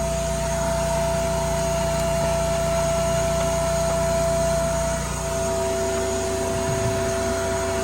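A small motor running steadily, a constant whine held at one pitch over a low hum.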